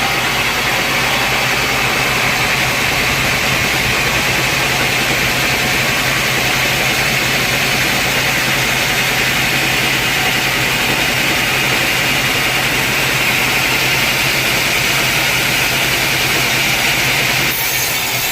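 Sawmill saw cutting through a log: a loud, steady high whine over a low machine hum, shifting slightly near the end.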